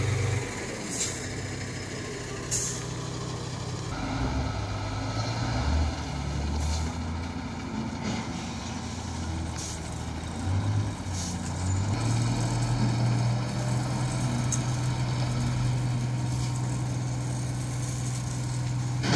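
Heavy truck's diesel engine running, its note rising and falling for several seconds before settling to a steady hum, with a few short sharp hisses along the way.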